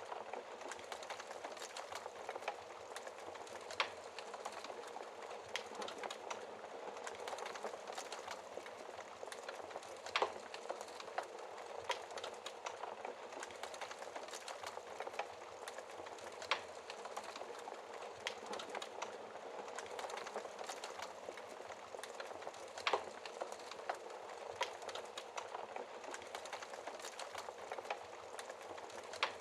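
Fireplace fire crackling steadily with dense small snaps, and a louder sharp pop every few seconds.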